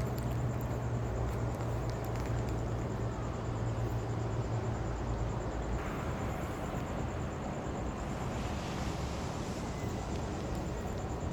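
Night-time city street ambience: a steady low hum that fades about halfway through, with traffic noise swelling near the end.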